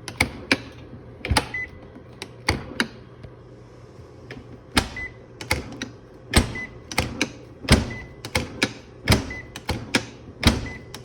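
Dishwasher door being shut and opened again and again, its door latch clicking and the door knocking shut about once a second, with a short high beep after several of the closings. The latch is being tested after its spring-loaded rod was readjusted because the door would not stay latched.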